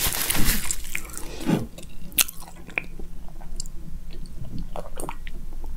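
Close-miked chewing of a samosa that has gone soft, so there is little crunch, just small wet mouth clicks. A sip from a glass follows about four seconds in.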